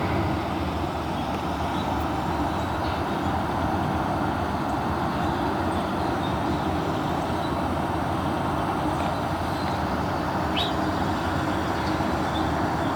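Front-loader garbage truck's diesel engine running steadily, an even rumble with no change in level.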